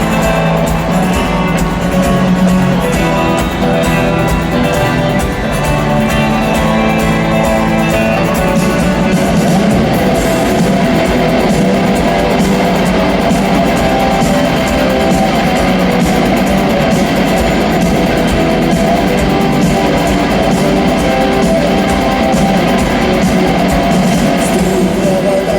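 Rock band playing live through a stadium sound system: an instrumental song intro led by guitars, the sound filling out about ten seconds in.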